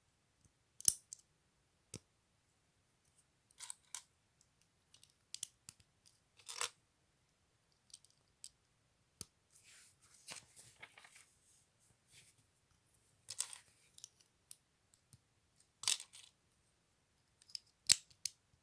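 LEGO bricks being handled and pressed together: scattered sharp plastic clicks, the loudest about a second in and near the end, with short rustles of pieces being sorted in between.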